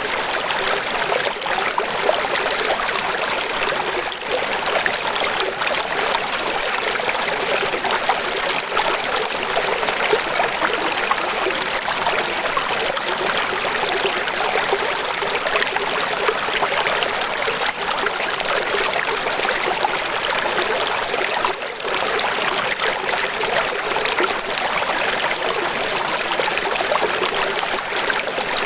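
Running water splashing steadily, a continuous hiss with little low rumble.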